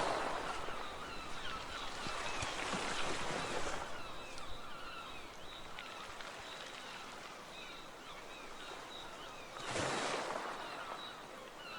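Outdoor ambience of rushing water, swelling twice, with faint short bird calls scattered through it.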